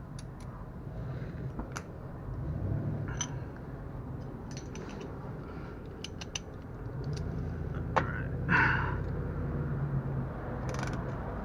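Scattered small metallic clicks and clinks of hand tools and loose bolts as fasteners are undone from a car's underbody plate, with a sharper click about eight seconds in followed by a brief ringing tone.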